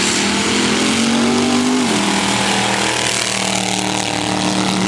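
Racing engines of sand drag trucks running loud and steady under heavy throttle. Their pitch steps down a little about two seconds in.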